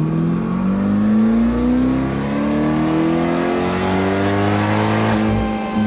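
Supercharged C8 Corvette's 6.2-litre LT2 V8 under throttle on a chassis dyno, its pitch climbing steadily as it pulls. A high whine from the ProCharger supercharger rises along with it.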